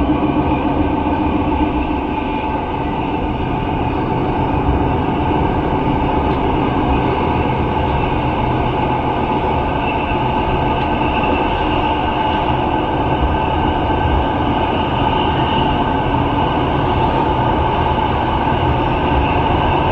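Running noise of a metre-gauge passenger train at speed, heard from inside the carriage: a steady rumble of wheels on rail with a constant whine over it.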